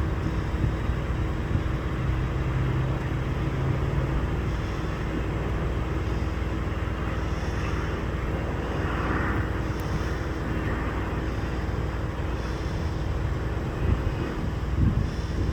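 Air Tractor AT-802A crop-dusting aircraft's turboprop engine running steadily, a constant drone with a low hum, with a couple of brief louder low bumps near the end.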